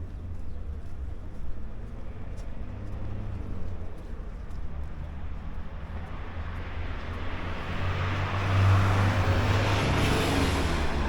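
Low, steady rumble of road-vehicle traffic, with a broad swell of traffic noise building about halfway in and peaking near the end as a vehicle passes close.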